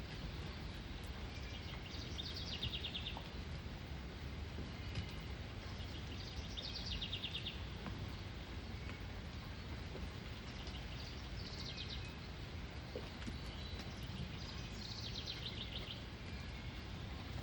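A songbird singing a short, rapid trill four times, about four seconds apart, over a steady low background rumble.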